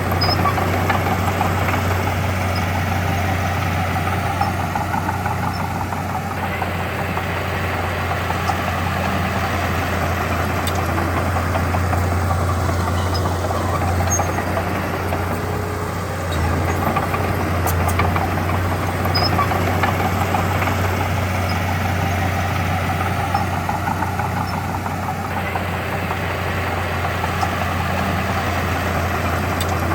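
Diesel engine of heavy earthmoving equipment running steadily with a low drone, its level stepping up briefly about 16 seconds in.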